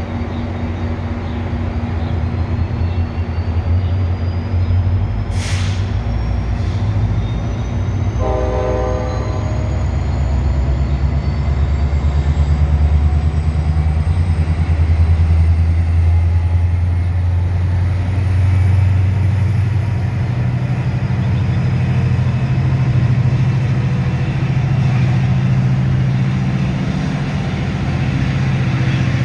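MARC commuter train running, a heavy steady low rumble that builds slightly through the middle, with a short horn blast about eight seconds in and a faint high whine slowly rising in pitch.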